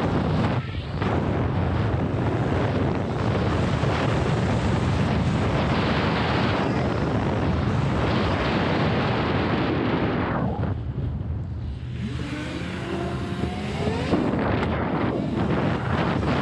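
Wind rushing over the microphone while riding a modified Razor MX6000 electric dirt bike, with a rising whine from its electric motors and chain drive as the bike speeds up, about twelve seconds in.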